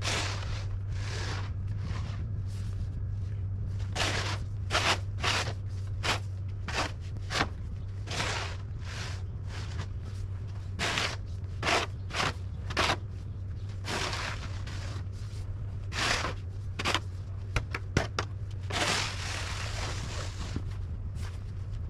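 A run of short crunching sounds in snow, irregular and about one or two a second, over a steady low hum.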